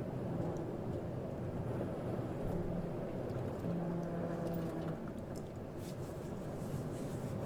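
Steady running noise of a moving car: engine hum and road rumble.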